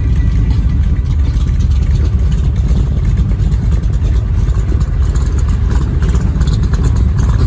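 Cobra sports car's engine running, a steady low rumble.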